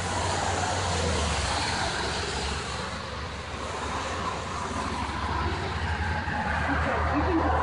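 Steady low rumble of a running vehicle, with an even noise over it and no distinct events.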